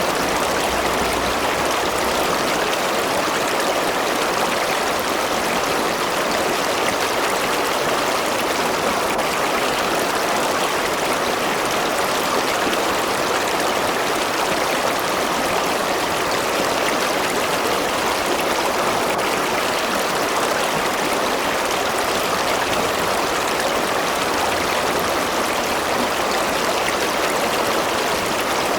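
A river or stream rushing and babbling steadily over stones, with no change in level.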